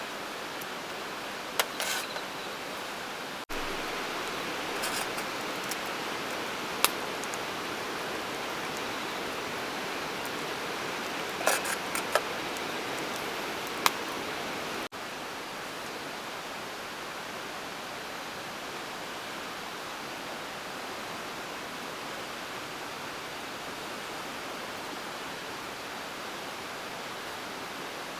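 Steady rushing noise of running water, with a few sharp clicks and taps scattered through the first half; the background steps abruptly in level twice.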